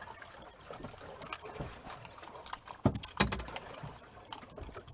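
Knocks and clatter on a small polyethylene fishing boat, with water sounds around the hull; two sharp, loud knocks close together about three seconds in.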